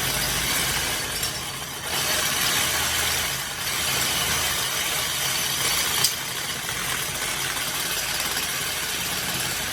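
A steady engine-like running hum under a constant hiss, with one sharp click about six seconds in.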